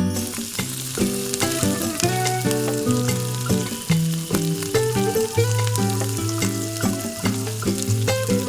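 Food frying in hot oil in a miniature pan, a steady sizzle, over background music.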